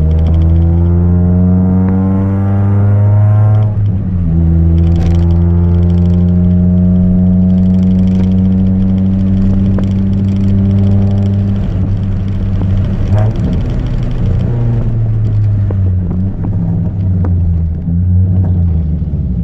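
Chevrolet Celta 1.0 naturally aspirated four-cylinder engine breathing through a 4-into-1 header and an open two-inch exhaust with no mufflers, accelerating through the gears. The note climbs, drops sharply at a gearshift about four seconds in, climbs again more slowly, then falls off around twelve seconds with a brief clatter and settles to a lower steady note.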